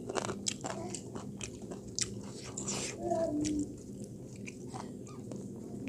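Close-miked eating: chewing and biting food, with frequent irregular crunchy clicks and wet mouth sounds.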